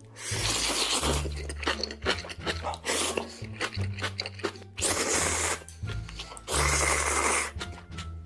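Close-miked mukbang eating of spicy noodles: four long slurps of about a second each, with wet chewing clicks between them, over background music with a low bass line.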